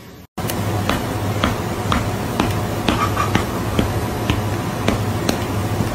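Sharp clicks or snaps in an even beat about twice a second, over a low steady hum and a noisy backing.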